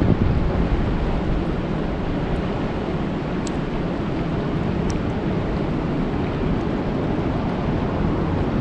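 Steady rain falling on a lake: a dense, even hiss with a strong low rumble, and a couple of faint high ticks about halfway through.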